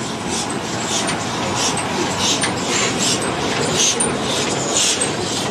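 Steam locomotive working, its exhaust beats coming as regular chuffs about every half second to a second over a steady rushing hiss.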